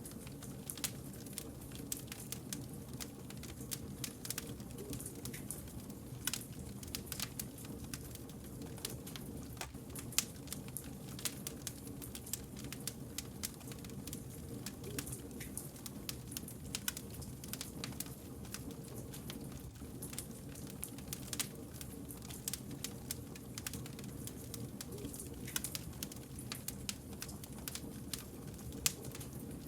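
Wood campfire burning, a steady low rumble under frequent, irregular sharp crackles and pops from the burning logs.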